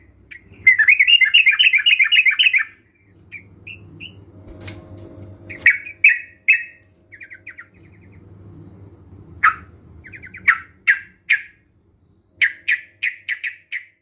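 Several yellow-vented bulbuls (trucukan) calling together in a lure recording, played to make a caged bird answer and sing. There is a fast chattering run about a second in, then short chirps and brief trills, and a quick series of notes near the end.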